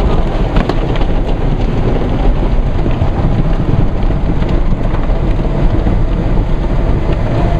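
Automatic car wash running over a car, heard from inside the cabin: a loud, steady rush of water spray drumming on the body.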